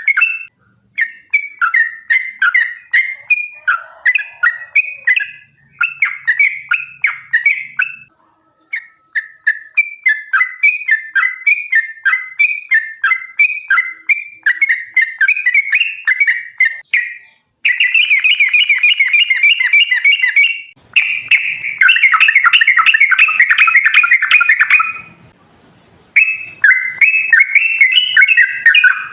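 Yellow-vented bulbul (trucukan) singing: runs of bubbly chirping phrases with short pauses between them, then two long, rapid rolling trills in the second half.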